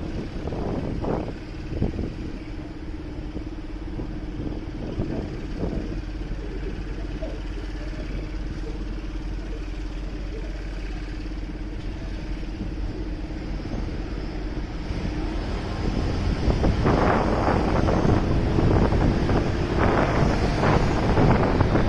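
Motorcycle running on city streets, with a low rumble and a steady engine tone. About three quarters of the way through it grows much louder as wind noise rushes over the microphone.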